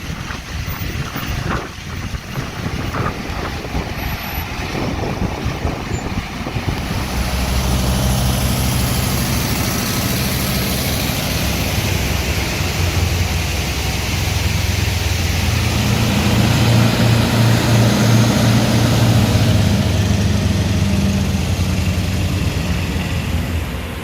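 Heavy truck engine running under way, a low steady note that comes up strongly about seven seconds in, grows louder toward the middle and eases off near the end. Before it, a rougher mixed rumble with a few knocks.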